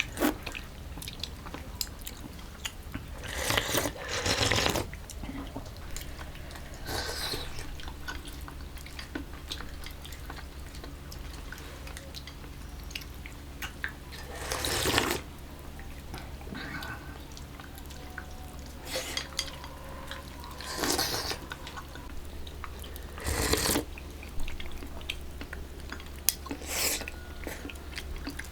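Intermittent handling noises of food preparation in a kitchen: short noisy rustles and scrapes every few seconds over a low steady hum.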